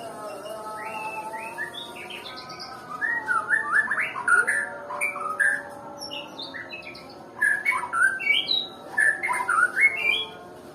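White-rumped shama (murai batu) singing: two bursts of rapid, varied whistled phrases with quick up- and down-sweeping notes, the first starting about three seconds in and the second about seven seconds in.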